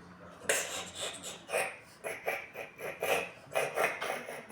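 Mouth sounds of a child eating milk porridge, a run of short wet smacks about two a second.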